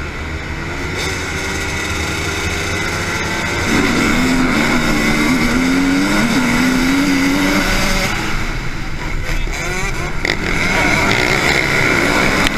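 Motocross bikes' engines running and revving as they ride the track, the pitch rising and falling with the throttle. The sound grows louder, and is loudest for a few seconds in the middle, as a bike passes close.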